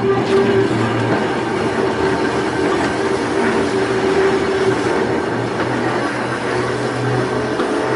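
Volk's Electric Railway car running along its narrow-gauge track: a steady rumble of wheels on rail with a steady humming tone.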